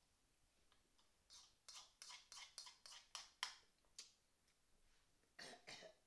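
Close-miked eating sounds: a run of wet chewing smacks on a mouthful of chicken noodles, about three a second, then two short breathy sounds near the end.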